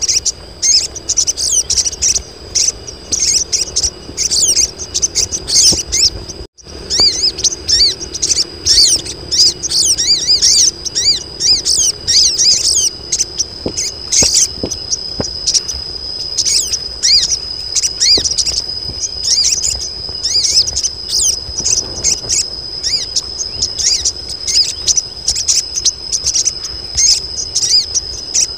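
A colony of female sogon birds calling, a dense, rapid stream of short high chirps without pause, over a steady high whine. These are the calls of females in breeding condition, used to lure males into calling. The audio drops out briefly about six seconds in.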